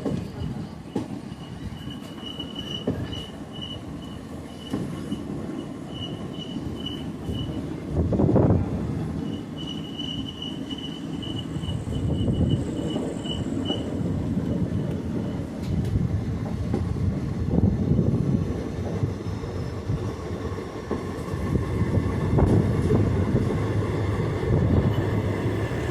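Indian passenger train running slowly, heard from on board: a low rumble of wheels on rail, with a pulsing high-pitched squeal of wheel flanges on a curve through the first half and a louder knock about eight seconds in.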